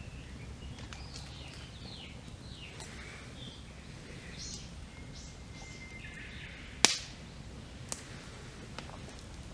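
Wood campfire crackling, with one loud sharp pop about seven seconds in and two smaller pops after it. Wild birds chirp and whistle throughout.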